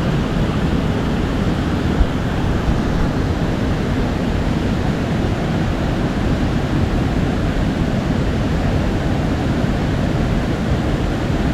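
Steady rush of a mountain stream's water tumbling over rocks, an even, unbroken noise.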